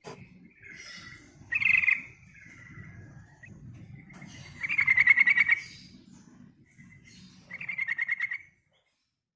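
Yellow-vented bulbul (trucukan) calling: a few short notes, then two loud, rapid, bubbly trilled phrases, about five and eight seconds in.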